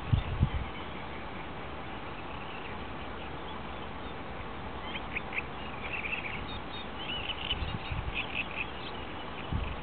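Birds calling: a run of short, high chattering calls from about five seconds in until near the end, over a steady background hiss. There is a low thump at the start and two more near the end.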